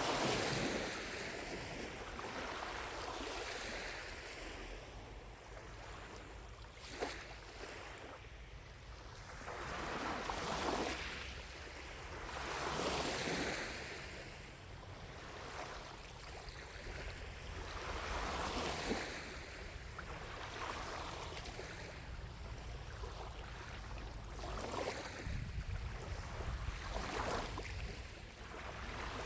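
Small lake waves lapping against the shore, each wash swelling and fading every few seconds, with a couple of sharper slaps. A low steady wind rumble runs underneath.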